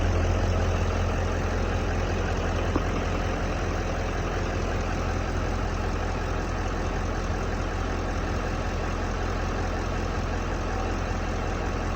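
Chevrolet Silverado 2500HD pickup's engine idling steadily with a low, even hum, shortly after a cold start. A single light click about three seconds in.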